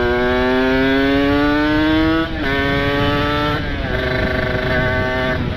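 Kawasaki Ninja RR's ported 150 cc single-cylinder two-stroke engine pulling hard under full throttle, its pitch climbing steadily, then dropping sharply twice, about two and a quarter and three and a half seconds in, as the rider shifts up.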